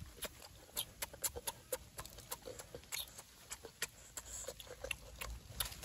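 A person eating with their mouth open: irregular wet chewing smacks and clicks, several a second.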